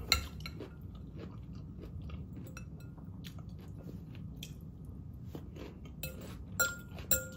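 A person chewing and crunching a mouthful of raw vegetable salad, with many small wet clicks and crunches. Near the end a fork clinks against the glass bowl a few times, each clink leaving a short ring.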